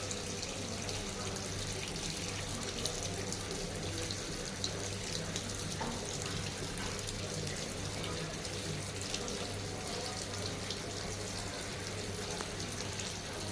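Sharp washing machine letting water into its drum: a steady run of water with a low, even hum underneath.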